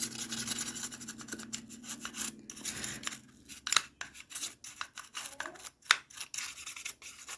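A small brush scrubbing over a multimeter's circuit board in quick, irregular scratchy strokes.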